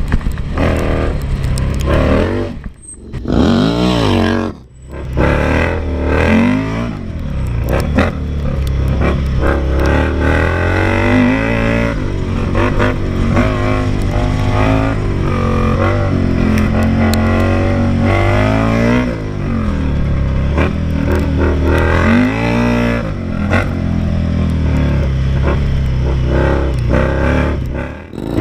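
Indian Scout Sixty's V-twin engine being ridden hard, revving up and down through the gears. The throttle is shut off sharply twice a few seconds in and again near the end.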